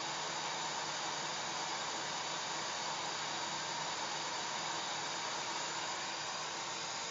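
Hair dryer running steadily: an even rush of blown air with a faint steady motor tone under it.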